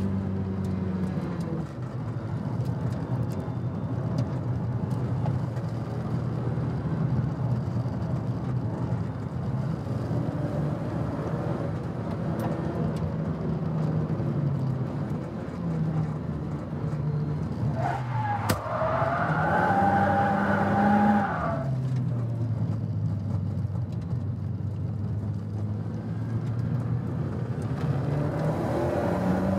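Nissan Silvia S15 Spec R's turbocharged SR20DET four-cylinder engine heard from inside the cabin on track, its revs rising and falling. About eighteen seconds in it revs sharply up to a high note, holds it for about three seconds, then drops back, and it climbs again near the end.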